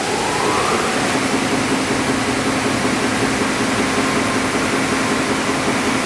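Second head of a Timesavers 200 series three-head wide belt sander starting, its 30-horsepower motor spinning up with a rising whine over about the first second, then running steadily along with the first head.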